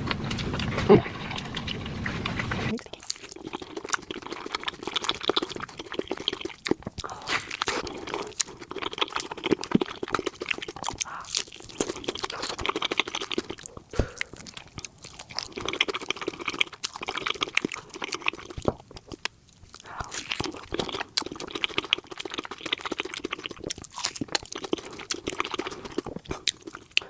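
Close-miked chewing and biting into a spicy chicken leg: many small irregular crunches and mouth clicks. A low muffled noise fills the first three seconds.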